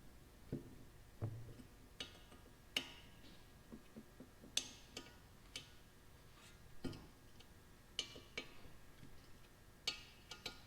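Faint, irregular metallic clicks and clinks of a hand wrench on small bolts being snugged down, a dozen or so scattered through, some ringing briefly.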